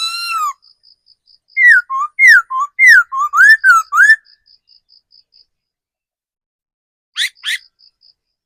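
Laughingthrush singing loud, clear whistled notes that swoop up and down. One long note comes at the start, then a rapid run of about eight notes in the middle, then two short upslurred notes near the end. A faint high pip repeats about three times a second underneath.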